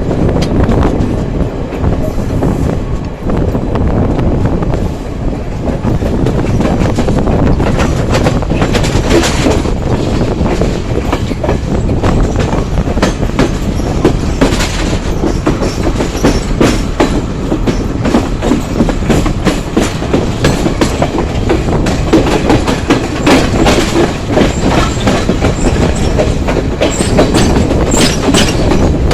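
Train running on the rails: a steady loud rumble with the repeated clatter of wheels over rail joints, growing busier after the first several seconds.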